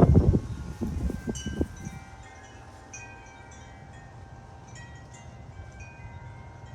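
Wind chimes ringing, several tones at different pitches struck one after another and left to fade. They follow a few loud, low rumbles in the first second and a half.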